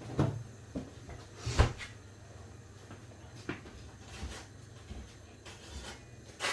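Irregular knocks and clacks of kitchen things being handled, the sharpest about one and a half seconds in and lighter clicks scattered after, over a low steady hum.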